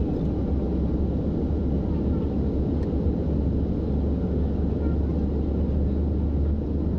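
Steady low rumble of engine and airflow noise inside an airliner cabin, unchanging throughout.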